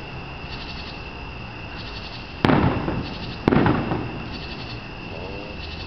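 Two fireworks shells bursting about a second apart, each a sharp bang followed by a rumbling decay.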